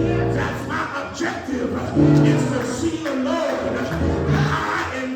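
Church music with singing: held instrumental chords under singing voices.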